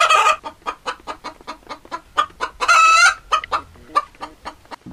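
Chickens clucking in quick short calls, several a second, with one longer drawn-out call a little past halfway.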